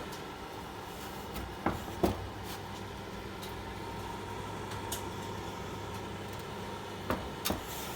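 Electric fireplace heater's fan running with a steady hum and hiss, the heater switched on. Two pairs of sharp clicks come about a second and a half in and again near the end.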